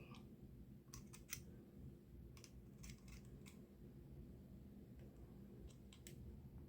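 Near silence with about eight faint, scattered clicks and small ticks from hand work on thin titanium parts being bent and fitted.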